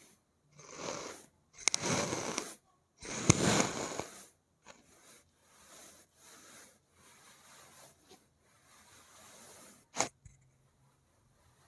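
Fingernails scratching across an object's surface in a series of strokes, the two loudest about two and three and a half seconds in, then softer strokes, with one sharp tap near the end.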